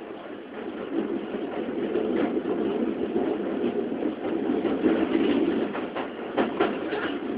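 Keikyu 600 series electric train running, heard inside the car: a steady rumble of wheels on rail that builds over the first couple of seconds, with several sharp clicks over rail joints near the end.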